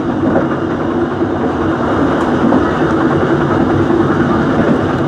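Dhoho passenger train running along the line, heard from on board: a loud, steady rumble of wheels on rails and the moving carriage.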